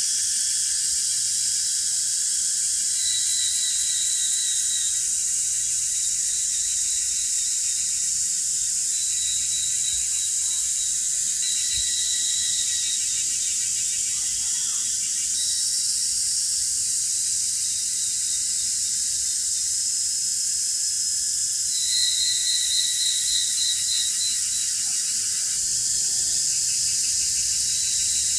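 A dense, steady, high-pitched chorus of singing insects. A pulsing trill rises out of it and fades several times, loudest a little past two-thirds of the way through.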